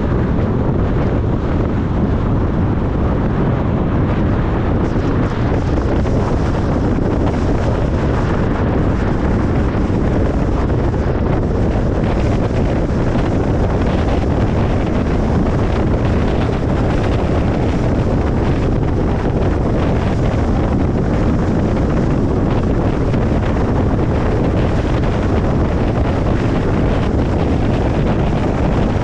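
Steady road noise of a moving car: an even, deep rush of tyres and wind that does not change.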